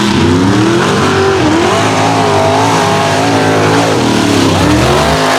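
Mega truck engines running hard at full race revs, the engine note rising and falling repeatedly as the trucks power through the mud course.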